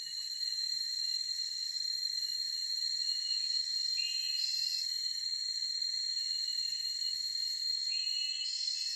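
Steady, high-pitched drone of crickets or other insects in a forest, with a short higher call heard twice, about four seconds apart.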